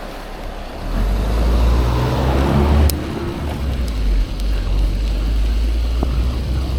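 A motor vehicle passes close by. Its engine and tyre noise swells and then fades about three seconds in, over a steady low rumble of wind on the microphone.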